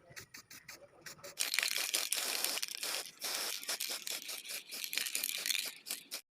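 A few light clicks, then rapid scratchy scraping noise from about a second and a half in, cutting off abruptly near the end.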